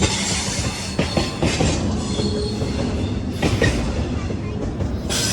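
Railroad cars rolling past close by: a steady rumble with wheels clicking over rail joints, and high-pitched wheel squeal near the start and again near the end.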